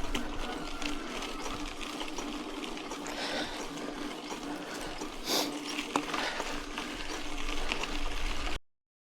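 Mountain bike rolling along a dirt road: a steady noise of tyres on gravel with scattered mechanical ticks and rattles from the bike, and one louder click about five seconds in. The sound cuts off abruptly near the end.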